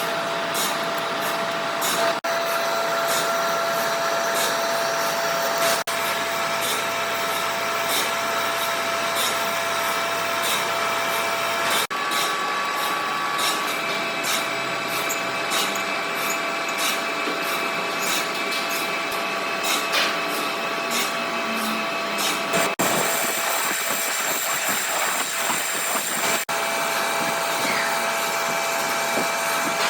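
Workshop machinery running steadily with a whining hum and fine ticking, its pitch changing abruptly several times as the sound jumps from one stretch of machining to another.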